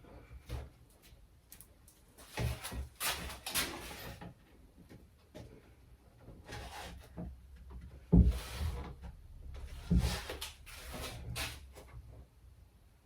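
Wooden baseboard parts being handled: irregular knocks and scrapes of timber, with two heavy thumps about eight and ten seconds in.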